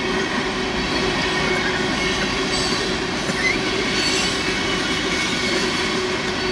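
Freight cars of a mixed freight train rolling past: a steady rumble of steel wheels on the rails, with a brief, short wheel squeal about three and a half seconds in.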